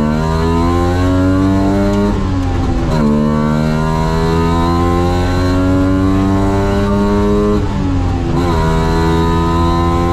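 Wartburg 353WR rally car's three-cylinder two-stroke engine accelerating hard under load, revs climbing steadily. It shifts up about two seconds in and again near eight seconds, and the revs climb again after each shift.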